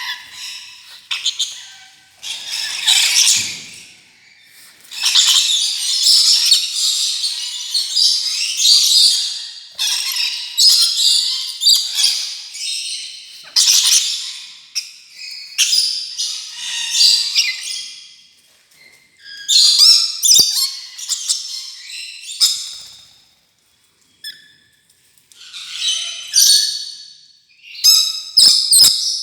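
Rainbow lorikeet chattering with harsh, shrill screeches and squawks, in long runs broken by short pauses.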